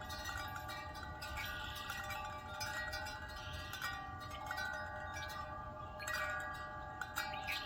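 Wind chimes ringing in a breeze, with several overlapping tones struck again and again and left to ring, over a low wind rumble.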